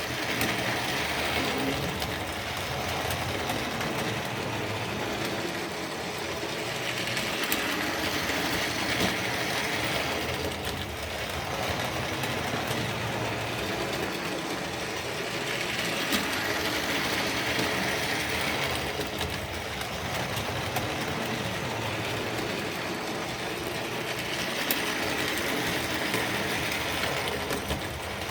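Tri-ang Railways model train running on its track: a steady electric-motor whir and wheel rattle, growing louder about every eight seconds as it laps the circuit.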